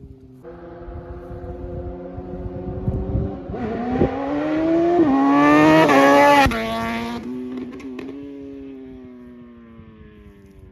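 Suzuki GSX-R750 inline-four sport bike with a flashed ECU and slip-on exhaust, accelerating hard past, its pitch climbing and dropping twice as it shifts up. It then fades away with a falling pitch.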